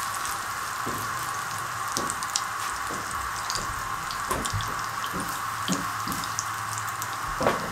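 Egg-battered bread slices sizzling steadily in shallow oil on a flat pan, with scattered light crackles and a soft knock near the end.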